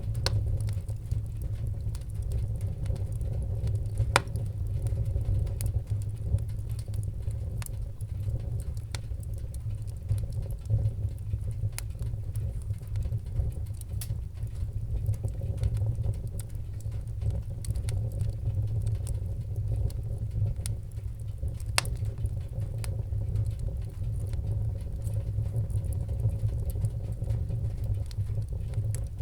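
Wood fire in a fireplace burning with a steady low rumble and scattered sharp crackles and pops, a couple of them louder.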